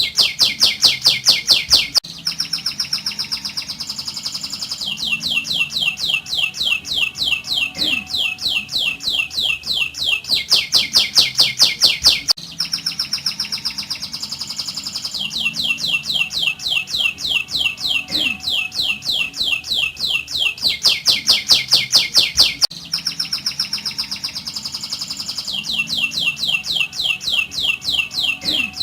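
Domestic canary singing a continuous rolling song of rapid trills, each a quick run of short falling notes, switching to a new trill type every couple of seconds. The same sequence of trills comes round again about every ten seconds.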